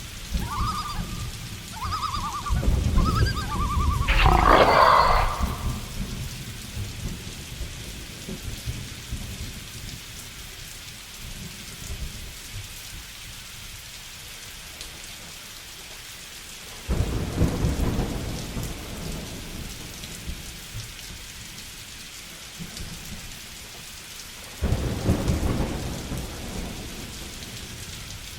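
Steady rain with two sudden claps of thunder in the second half, each rumbling away over a few seconds. At the start an animal gives a run of short repeated calls, then one louder call.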